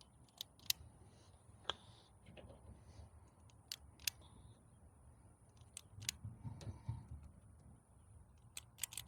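Faint, irregular sharp clicks and light taps a second or more apart, over a low hum that swells briefly about six seconds in.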